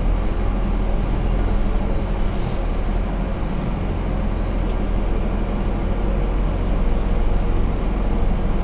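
Heavy truck's diesel engine running steadily, a low rumble heard from inside the cab.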